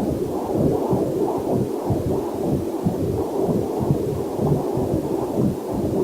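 Heartbeat picked up through a Doppler heart monitor: rapid, muffled whooshing pulses, about two to three a second, in a steady rhythm.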